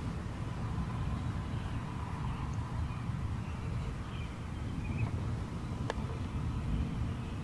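Outdoor field-recording ambience: a steady low rumble with a few faint chirps, and a single sharp click about six seconds in.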